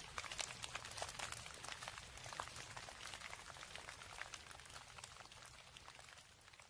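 Rain falling: a dense, irregular patter of individual drops hitting a surface, fading away near the end.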